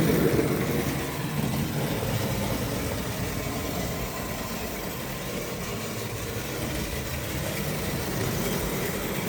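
Tri-ang OO-gauge model locomotive running along the track: a steady mechanical hum and rattle from its small electric motor and wheels.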